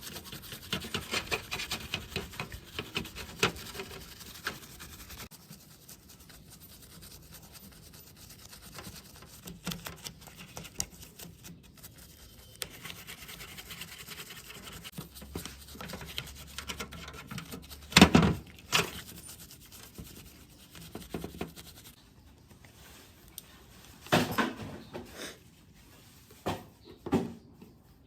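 Rubbing and scraping of hand work on parts, dense for the first few seconds and then quieter. A single sharp knock comes about two-thirds of the way through, and a few more knocks near the end.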